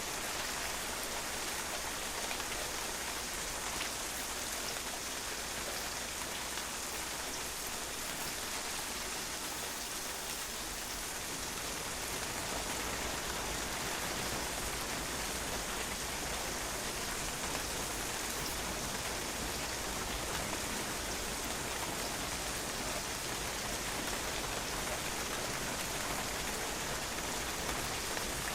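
Steady rain falling on a patio, drops pattering on the hard surface in an even hiss.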